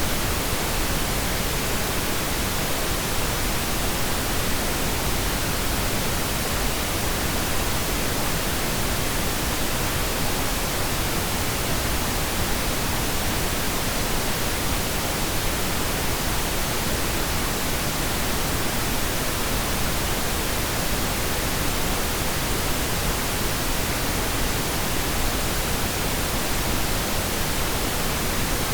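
Steady pink noise, an even, unchanging hiss across the whole range with no breaks or events.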